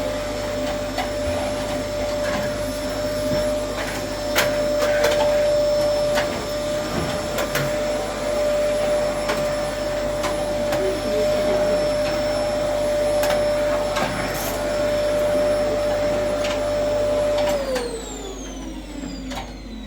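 Electric appliance motor running at a steady pitch with scattered clicks, then switched off about three seconds before the end, its whine falling as it spins down.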